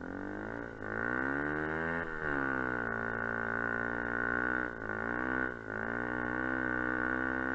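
Kuba Black Cat dirt bike engine revving under load as it climbs through deep snow. Its pitch rises and falls with the throttle, dropping and climbing back about two seconds in and again a little after five seconds.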